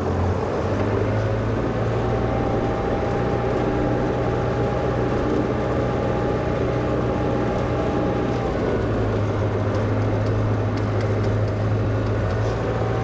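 Old Volvo LM225 wheel loader's diesel engine running steadily with a low, even drone.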